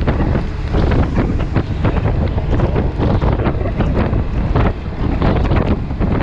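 Wind buffeting the microphone of a camera riding on a Yamaha T-Max 530 maxi-scooter at road speed: a loud, dense rumble with frequent gusty surges.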